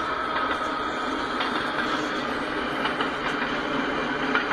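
Freight cars rolling past: steady wheel-on-rail rumble with scattered clicks from the wheels.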